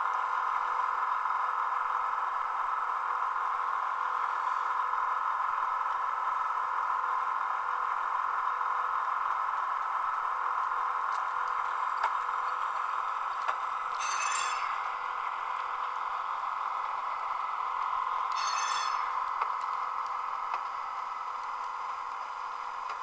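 Soundtraxx SoundCar sound decoder in a model caboose playing its car sounds through a small speaker: a steady whine, with two brief metallic bursts about 14 and 18 seconds in.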